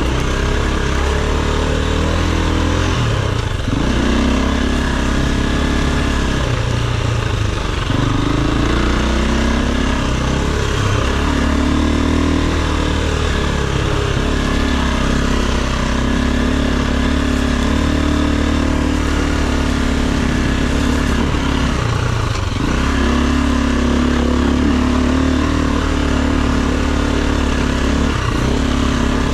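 Enduro dirt bike engine running as the bike is ridden. Its pitch holds steady for stretches and dips briefly several times as the throttle is rolled off and opened again.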